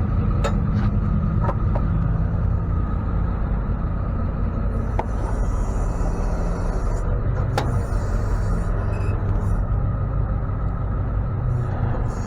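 Tow truck running, a steady low engine and road rumble.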